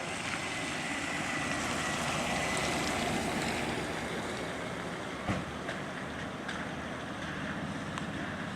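Rain falling, a steady hiss with scattered drop ticks, and a single sharper knock about five seconds in.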